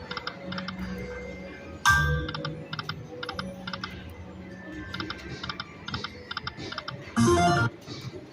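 Lightning Link Eyes of Fortune slot machine's electronic sound effects: a ringing tone as a spin starts about two seconds in, an even run of quick ticks while the reels spin, and a brief louder chime near the end.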